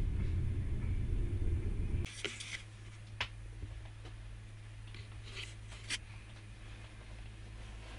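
Low rumble of a passenger train running on the rails, heard from inside the carriage, cutting off abruptly about two seconds in. After that comes a quiet steady hum with a few light clicks and rustles.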